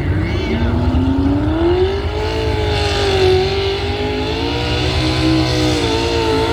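Pulling truck's engine revving up over about two seconds, then held at high revs with a slight waver, over a heavy low rumble.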